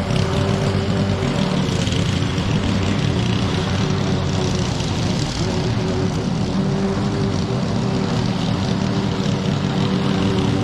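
Small petrol engine of outdoor power equipment running steadily at a constant speed.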